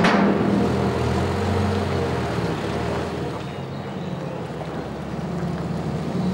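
Tractor engine running steadily, its hum easing off a little midway and building again near the end.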